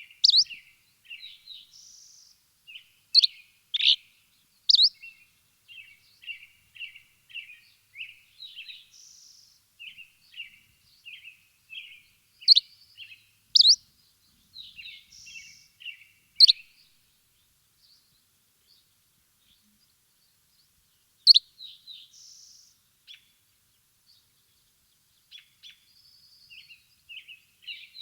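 Birds chirping in bursts: sharp, high chirps mixed with softer, rapid twittering, with a pause of a few seconds past the middle.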